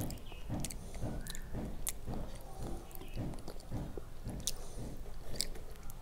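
A person chewing a mouthful of rice and fish, about two chews a second, with wet mouth clicks and smacks in between.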